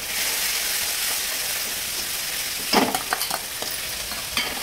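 Green masala paste sizzling in hot oil in a metal kadhai as it is tipped in and stirred. A few sharp metal knocks and scrapes against the pan come about three seconds in and again near the end.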